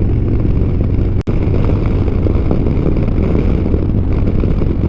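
Motorcycle engine running steadily at road speed, heard through a helmet-mounted camera microphone with rushing wind noise. The sound cuts out for an instant about a second in.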